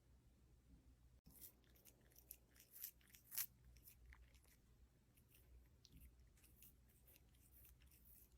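Faint, irregular crisp crunching and clicking, with two sharper clicks about three seconds in.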